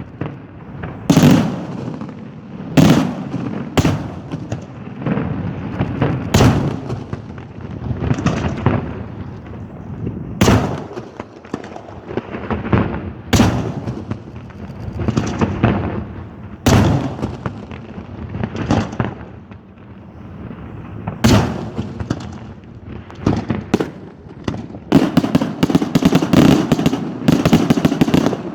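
Daytime fireworks battery: loud bangs from shells bursting in the air, one every second or two, each trailing off in a rolling echo. Near the end they break into a rapid run of many reports close together.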